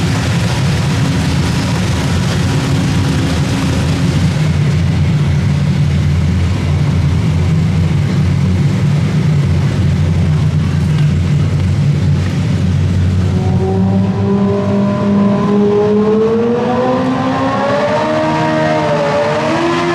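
Open-class garden pulling tractor's engine running hard at high throttle; about two-thirds of the way in its pitch climbs and then wavers up and down.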